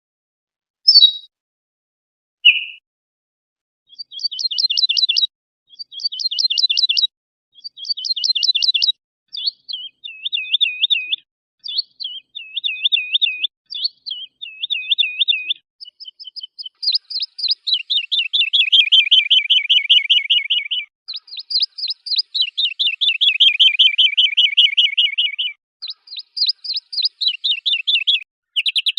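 Songbird song from an edited compilation of training phrases: short clear notes, then phrases of rapidly repeated notes each lasting about a second with silent gaps between. Past the middle come two long, fast trills of several seconds, the loudest part, followed by a shorter trill near the end.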